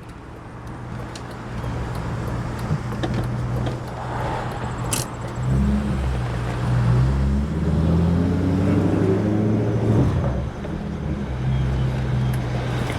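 BMW E39 540i's 4.4-litre V8 through a straight-piped three-inch exhaust with hollowed-out cats and no mufflers, pulling away under throttle. The revs climb for a couple of seconds, then drop suddenly near the end.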